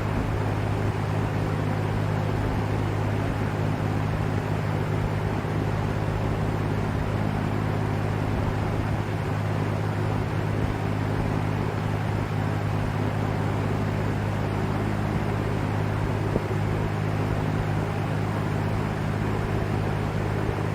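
LAU Ultra Twenty 20-inch box fan running steadily: a constant low motor hum under an even rush of air.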